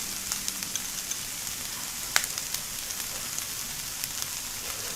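Food sizzling on an electric grill: a steady hiss with scattered small crackling pops, one sharper pop about two seconds in.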